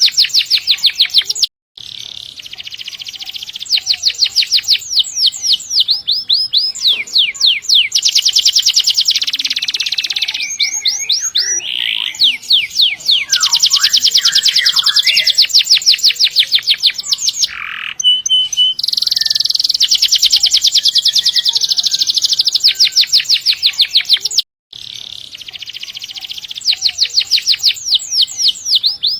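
Domestic canary singing in full song, long rapid high-pitched trills (rolls) of evenly repeated notes strung one after another, with two brief dropouts.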